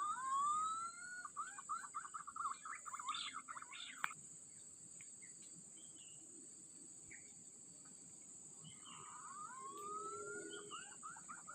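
A bird calls twice, each time a rising whistle that breaks into a fast run of short notes, over a steady high insect drone. A single sharp click comes about four seconds in.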